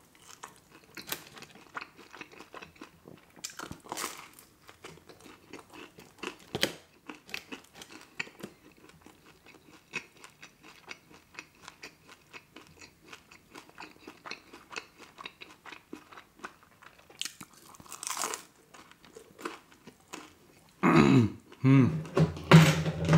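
Close-miked chewing of pepperoni pizza, with soft wet mouth sounds and small crunches of the crust, a few louder crunches along the way. Near the end, two loud, wavering hummed vocal sounds made with the mouth full.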